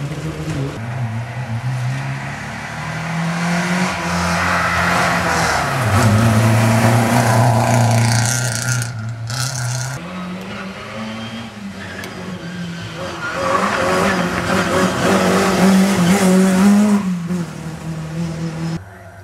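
Rally car engines running hard through the gears on a loose, snowy track, their pitch climbing and dropping with each change, with tyre and gravel noise over them. A short break comes about nine seconds in.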